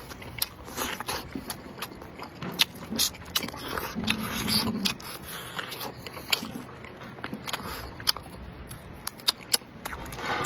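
A person chewing and biting into a spare rib close to the microphone, with frequent sharp mouth clicks and smacks.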